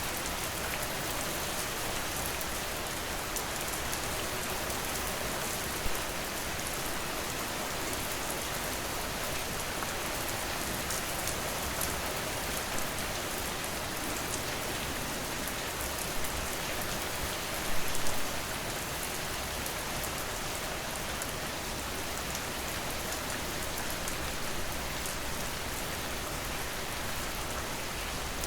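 Steady rain falling on a surface: a continuous even hiss with individual drops ticking through it. A few brief louder hits come through, the loudest a short cluster about 18 seconds in.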